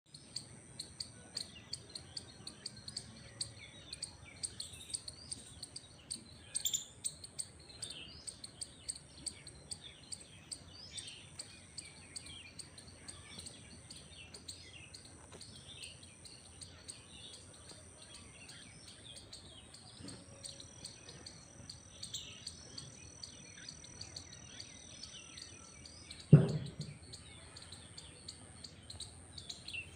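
Many birds chirping repeatedly over a steady high-pitched insect drone. One loud thump comes late on.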